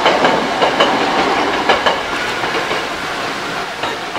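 Hankyu commuter train running past, its wheels clacking over rail joints in pairs of clicks. The clacks stop about halfway through and the running noise eases.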